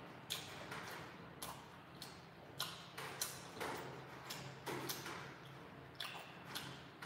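Crisp crunching of grilled dried fish being chewed, in sharp, irregular crunches about once or twice a second.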